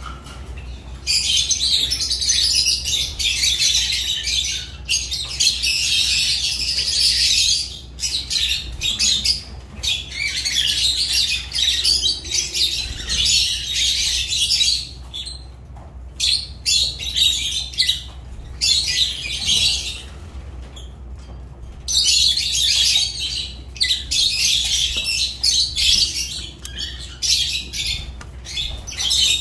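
Lovebirds chattering: long bouts of shrill, rapid twittering broken by short pauses, with a faint steady low hum underneath.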